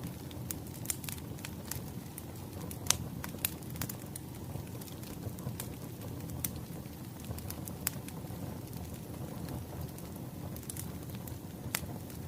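Wood fire crackling: irregular sharp pops and snaps over a steady low rumble of burning logs, one pop louder than the rest about three seconds in.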